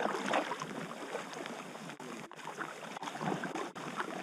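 Irregular splashing and gurgling of river water around a packraft, with the paddle working the water.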